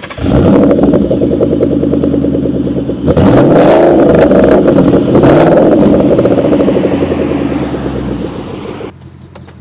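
2011 Mustang GT's 5.0 V8 through a Roush aftermarket exhaust, starting and running loud at a fast idle, revved once about three seconds in with a rise and fall in pitch, then easing off and dropping to a much quieter idle near the end.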